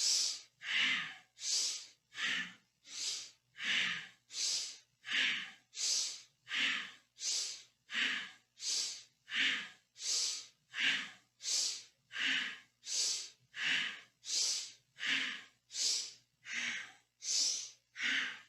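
Powerful, rhythmic breathing through the nose for the Kundalini spinal flex: a strong inhale and a strong exhale take turns at a steady quick pace, about one and a half breath sounds a second.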